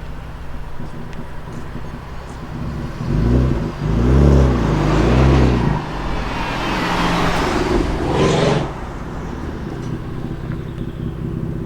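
Performance BMW car engine running at a low steady note, blipped through several quick revs, then accelerating hard in a loud rising rush that cuts off near nine seconds in, before dropping back to a low idle.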